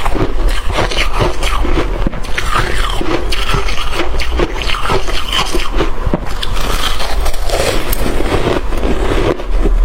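Close-miked crunching and chewing of shaved ice and freezer frost, a dense, irregular run of crackles and crisp bites.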